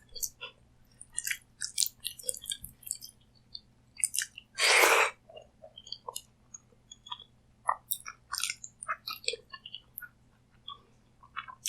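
Close-miked chewing of food, with an irregular run of wet mouth clicks and smacks. About four and a half seconds in there is one louder rushing burst lasting about half a second.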